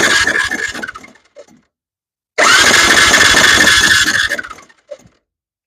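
Electric starter cranking the Honda Fourtrax 300's single-cylinder engine in two bursts, each with a fast even rhythm under a starter whine. The first dies away about a second in and the second runs for about two seconds and then dies away. A compression gauge is fitted in the spark plug hole, and the owner reads its lack of movement as no compression at all: the top end is worn out.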